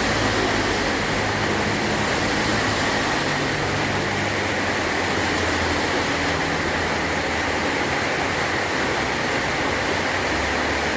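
Heavy rain falling steadily on a metal tin roof, an even hiss with a dense patter and a low rumble underneath.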